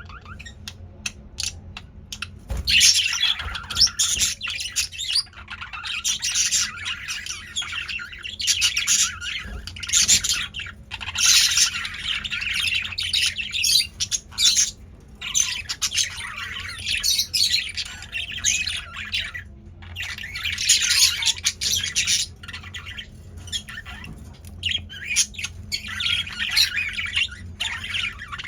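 Caged male budgerigars chattering and squawking in quick bouts of a second or two, with short pauses between them.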